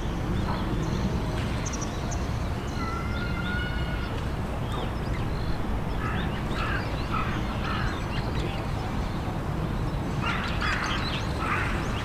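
Birds calling over a steady low background rumble: one drawn-out nasal call about three seconds in, then a run of short calls a few seconds later and again near the end.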